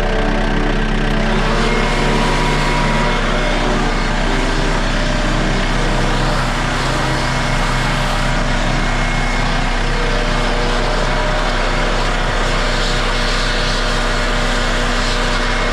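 John Deere 4600 compact tractor's diesel engine running steadily at working speed, with a faint shift in pitch a few seconds in.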